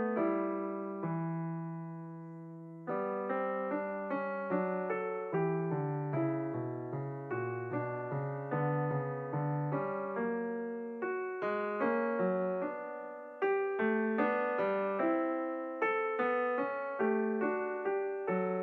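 Solo piano music: a gentle, slow melody of struck notes over held chords, each note fading after it is played.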